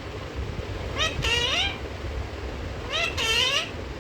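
Pet parrot calling or talking: two short, arching, meow-like calls about two seconds apart.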